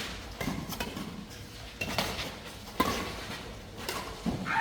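A badminton rally: a string of sharp racket strikes on a shuttlecock, roughly one a second.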